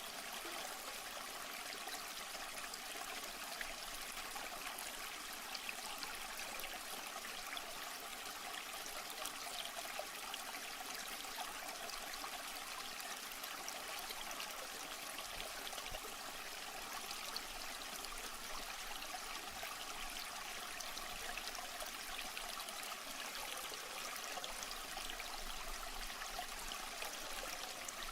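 Steady running, trickling water with a fine bubbling crackle, unchanging throughout.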